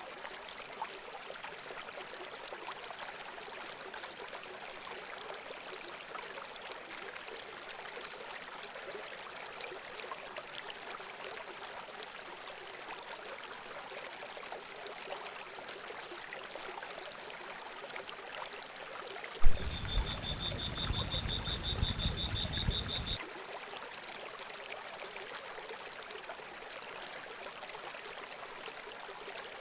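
Steady trickling, running water. About two thirds of the way in, a sudden loud thump and a few seconds of low rumble, with a rapid high-pitched trill lasting about three seconds over it.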